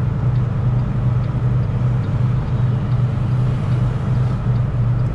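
Semi truck running down the road, heard from inside the cab: a steady low drone of engine and road noise.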